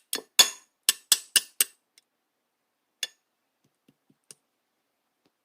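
Clear slime being played with by hand, making a quick run of sharp popping clicks in the first two seconds, then a few single clicks.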